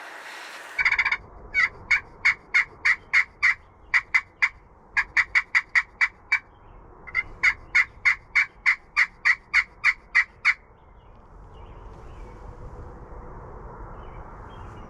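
Wild turkey calls: a gobble about a second in, then long runs of short, evenly spaced yelps, about three a second, in four series that stop about ten and a half seconds in.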